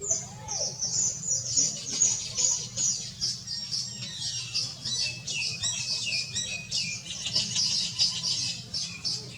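A group of small songbirds chattering, with rapid high chirps and short falling notes that overlap into a continuous, busy chorus, over a faint low steady hum.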